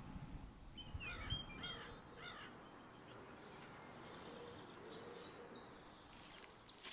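Songbirds chirping faintly over a low outdoor hiss, a quick run of repeated chirps followed by thinner, higher calls. Near the end comes a short rustle, like a step in dry leaves and twigs.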